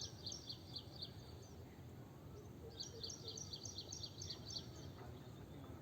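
A small bird singing a run of short, high notes repeated about three to four times a second, heard twice: once at the start and again about halfway through, over a faint steady background hum.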